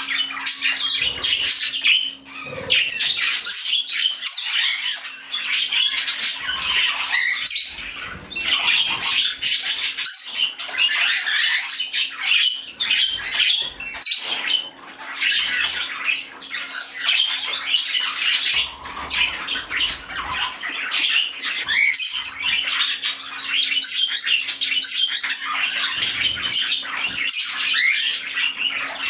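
A room full of pet parakeets and cockatiels chirping and squawking continuously, many birds calling over one another. A faint steady low hum runs underneath.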